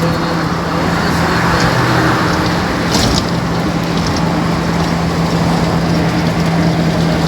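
A motor running steadily, with a constant low hum under a rushing noise and a few faint high ticks about three seconds in.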